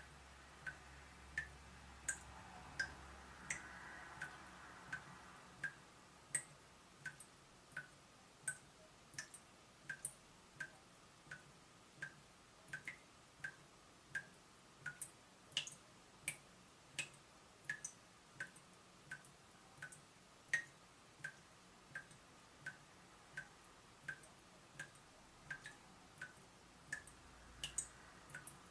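Water dripping steadily from a leaking tap, one sharp drop about every two-thirds of a second.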